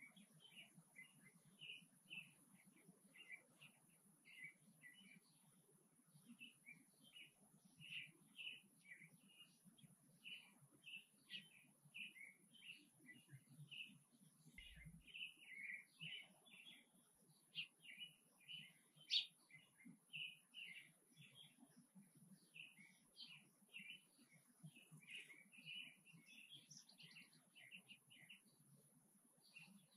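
Small birds chirping: short, high chirps several times a second in an irregular chatter, with one sharper, louder chirp about two-thirds of the way through.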